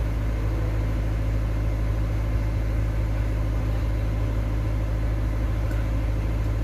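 A steady, unchanging low-pitched drone like an idling engine or generator, strongest in the deep bass.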